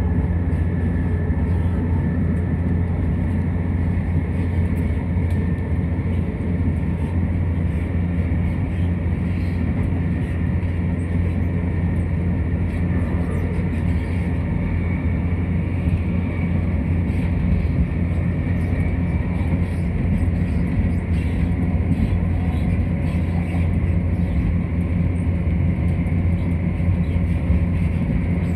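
Inside a Class 170 Turbostar diesel multiple unit running at speed: a steady low rumble from the train and its wheels on the track, with a faint high whine held throughout.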